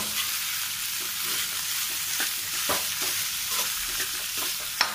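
Potatoes frying and sizzling in oil in a kadai as they are stirred into the fried masala for vada pav filling, a metal spoon scraping and knocking against the pan. The hiss is steady, with a few short knocks and the sharpest one near the end.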